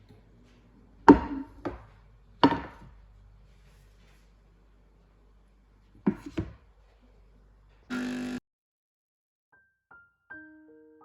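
Several sharp knocks and clunks, a short buzz lasting about half a second, then soft piano music beginning near the end.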